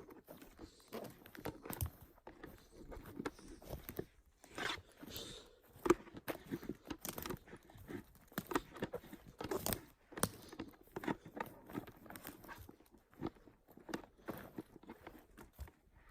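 Footsteps crunching and snapping through forest-floor litter, an uneven run of short crunches.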